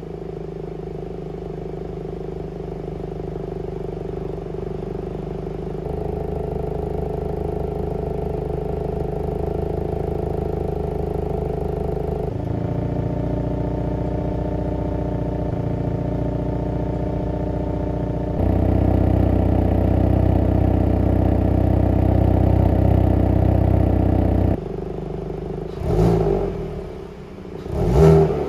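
Hyundai Kona N's 2.0-litre turbocharged four-cylinder exhaust at idle, heard as four back-to-back steady clips that each get a little louder, with cuts at about 6, 12 and 18 seconds: the active exhaust valve is closed for the first two and open for the last two, comparing the stock exhaust with the middle resonator deleted. Near the end the engine is blipped twice, each rev rising sharply and dropping back.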